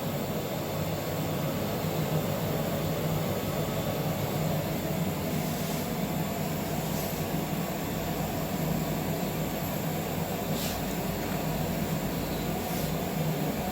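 Steady mechanical hum of laboratory equipment, with a few faint ticks.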